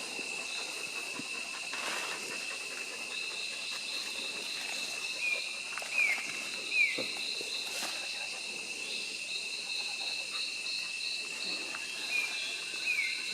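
Rainforest insect chorus: several insects shrilling steadily at different high pitches, one of them pulsing rapidly in the second half. Twice a pair of short falling whistled calls sounds over it, and a few soft knocks come in the middle.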